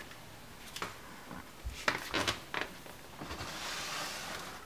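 A few light knocks and clicks, then a rustling hiss lasting about a second and a half from roughly three seconds in.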